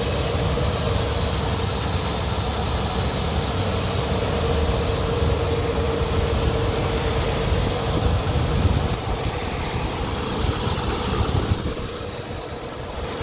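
Car under way: a steady engine and road rumble with a constant drone, easing off a little after about nine seconds and again near the end.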